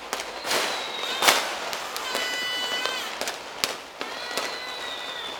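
Fireworks going off: a string of sharp bangs and pops, the loudest about a second in. High whistles from whistling fireworks run through it, one held steady for about a second in the middle and ending in a quick drop, and another slowly falling near the end.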